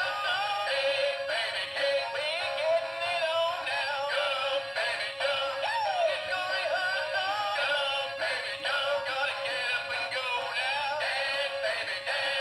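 Dan Dee animated motorcycle-riding Phantom Halloween figure playing its song through its built-in speaker: continuous music with male singing, thin and tinny with almost no bass.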